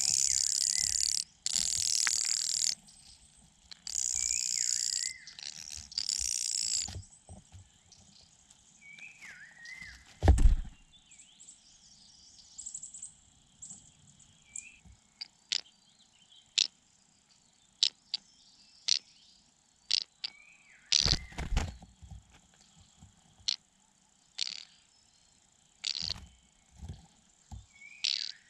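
Outdoor night chorus with a steady high insect trill, such as crickets, and scattered short falling bird chirps. Several loud hissing bursts fill the first seven seconds, with sharp clicks and one heavy low thump about ten seconds in.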